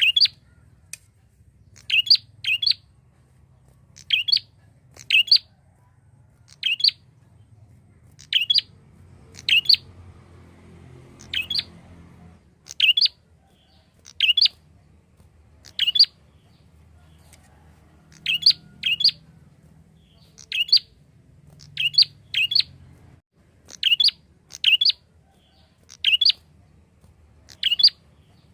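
Prinia (prenjak) calling over and over: short, sharp high chirps, often in quick pairs, about one every second or two.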